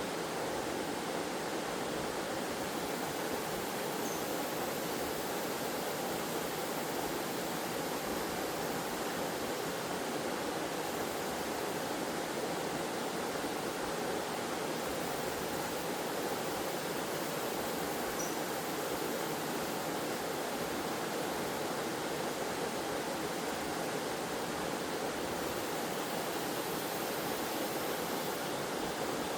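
Waterfall in a forest, water cascading with a steady, even rush.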